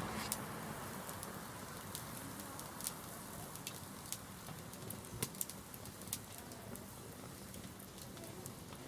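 Wood bonfire crackling, with scattered sharp pops over a low hiss.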